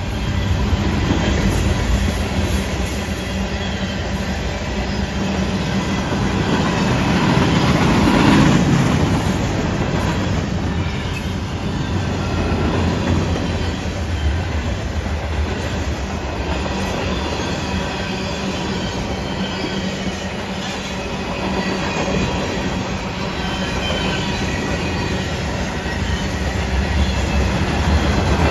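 Freight train rolling past: a steady rumble of railcar wheels on the rails, with clickety-clack over rail joints and some wheel squeal. The sound swells about eight seconds in.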